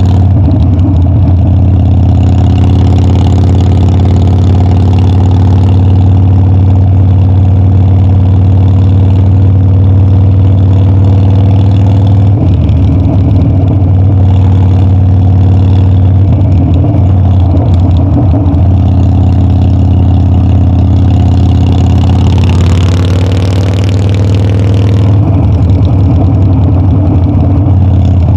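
Harley-Davidson Dyna's V-twin engine and exhaust running at a steady, nearly constant speed during a ride. A few seconds of added rushing hiss come in about three-quarters of the way through.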